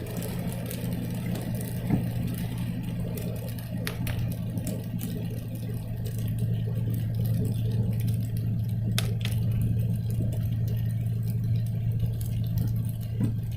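Conversion van's engine and road noise heard from inside the cab while driving, a steady low drone. Two brief clicks come through about four and nine seconds in.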